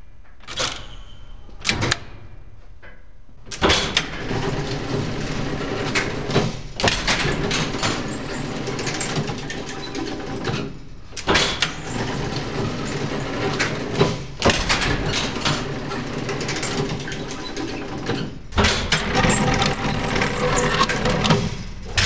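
PCC streetcar control equipment being operated: a few short clatters, then, about three and a half seconds in, a busy mechanical whirring full of rapid clicking. It runs in spells of a few seconds with brief breaks between them.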